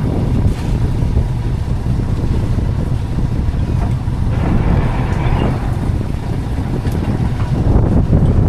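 Wind buffeting the microphone on a small fishing boat at sea, a steady low rumble, with a brief rushing noise about halfway through.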